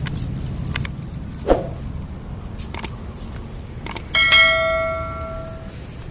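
A few small clicks and knocks, then about four seconds in a small metal bell rings once with a bright note that fades over about a second and a half, over a low steady hum of distant traffic.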